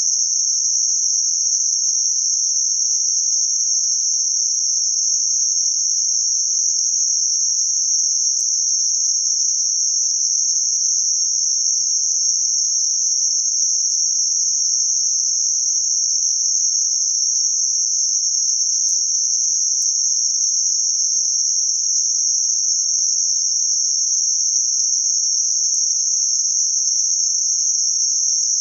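Electronically generated narrow-band noise centred around 6051 Hz: a steady, high-pitched hiss that never changes.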